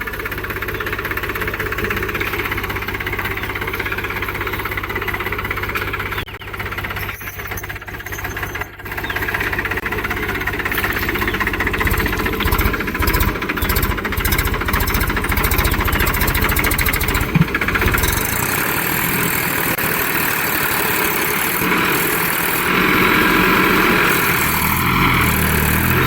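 Tractor's diesel engine running and working, its sound dipping briefly a few seconds in, then heavy low pulsing for several seconds, then changing and growing louder near the end.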